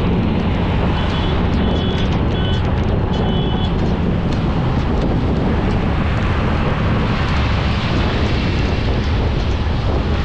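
Steady road and wind noise from a car driving, heaviest in the low end. A few short high beeps come between about one and four seconds in.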